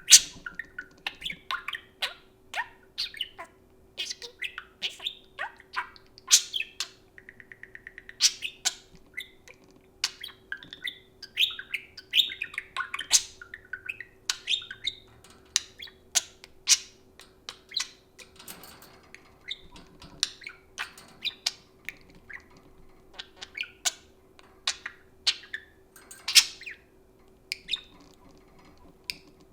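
Pet budgerigars chirping and squawking in many short, sharp calls, with a buzzy stretch about seven seconds in.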